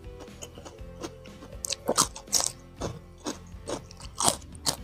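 Raw cucumber slices crunched and chewed close to a clip-on microphone: a run of crisp bites and wet chews, loudest about two seconds in and again near the end.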